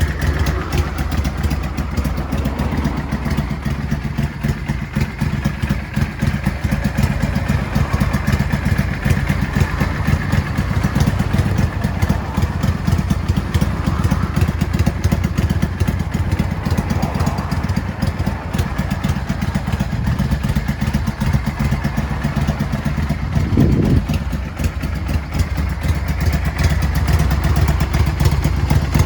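Yamaha Drag Star 400's air-cooled V-twin idling through a custom-built muffler, tuned for a loping Harley-style 'three-beat' idle. The throttle is blipped once briefly near the end.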